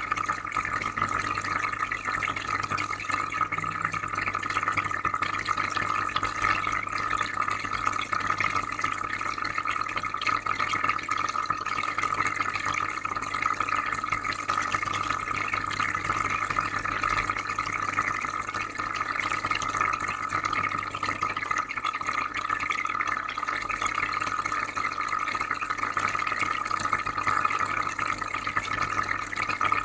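Aquarium filter running, with a steady trickling and bubbling of water and a low constant hum beneath it.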